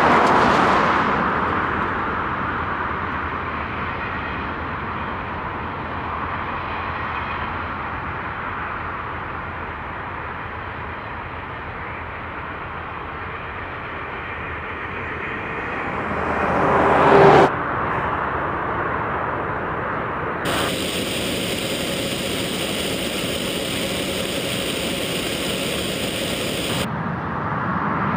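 Container freight train behind a diesel locomotive passing, a steady rushing rumble of wagons on the rails that swells and then cuts off abruptly about seventeen seconds in. A different steady noise with high thin whines follows after the cut.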